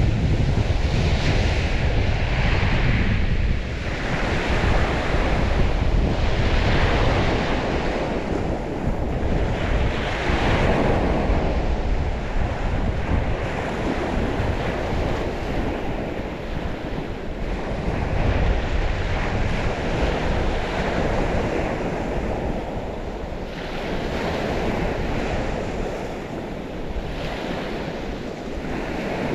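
Waves of the St. Lawrence washing onto the shore, a steady wash rising in irregular swells every few seconds. Wind buffets the microphone with a low rumble, strongest in the first few seconds.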